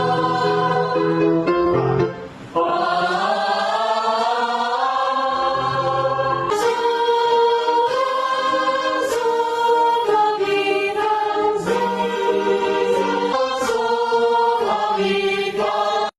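A choir singing in parts, holding long chords that move from note to note, with a short break for breath about two seconds in.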